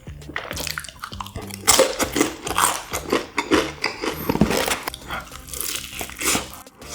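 Close-miked biting and chewing of crispy Korean fried chicken: a run of crunches and wet chews, several loud bites in the middle. A quiet background music track with a repeating bass line runs underneath.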